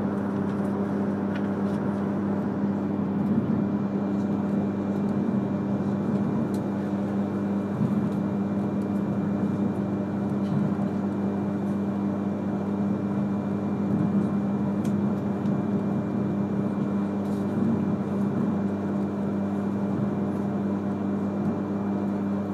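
E3 series Shinkansen train running steadily, heard from inside the passenger car: a constant low hum with a few steady tones over even rumbling running noise, and a few faint clicks.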